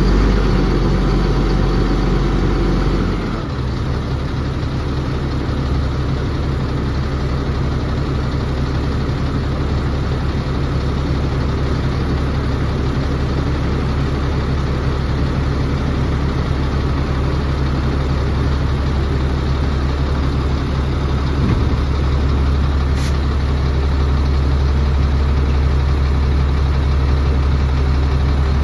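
Caterpillar diesel engine of a Freightliner dump truck idling steadily. Its note changes about three seconds in.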